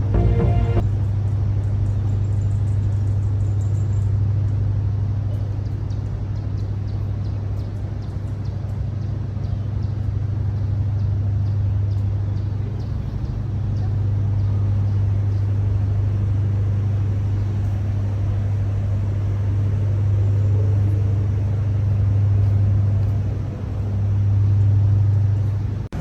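Steady low vehicle rumble with a strong droning hum, dipping briefly about halfway through and again near the end.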